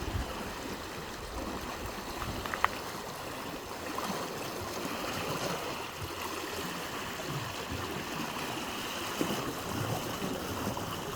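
Floodwater flowing steadily, with one brief click about two and a half seconds in.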